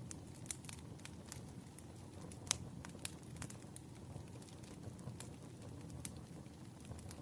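Campfire crackling: a steady low rumble of burning wood with irregular sharp pops and snaps, the loudest pop about two and a half seconds in.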